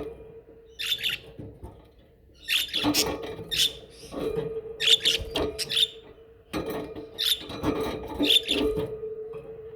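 Budgerigars chattering and warbling in several bursts of quick chirps and squeaks, with short pauses between them. A steady low hum runs underneath.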